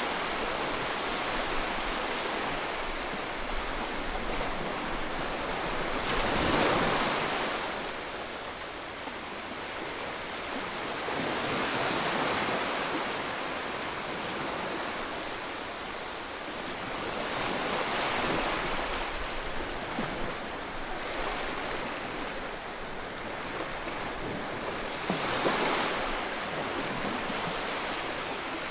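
Sea waves breaking and washing on the shore, a steady rush of surf that swells as a new wave breaks about every five to six seconds.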